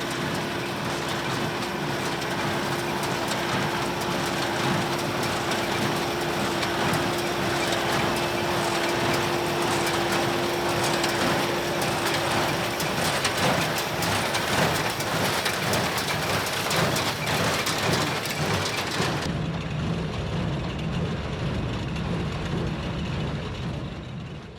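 Tractor pulling a New Holland Super Hayliner 78 wire-tie square baler. The engine and the baler's working parts run together as a dense, steady mechanical clatter, and the sound shifts about 19 seconds in before fading out at the end.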